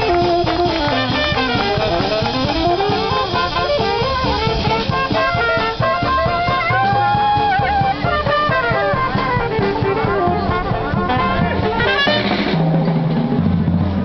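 Street band playing jazzy music: brass horns play sliding, bending notes over a drum kit. About twelve seconds in the horns drop out, leaving drums and a low bass line.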